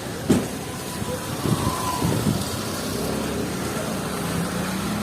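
Street traffic: a motor vehicle's engine running close by, its hum coming up from about halfway in, with a sharp knock near the start and a few lighter knocks.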